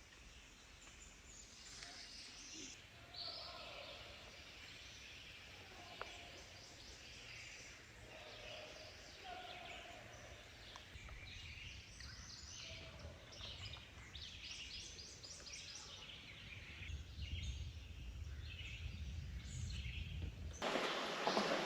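Woodland birds calling: many short chirps and quick runs of notes, over a faint low rumble. Near the end a much louder rustling noise cuts in suddenly.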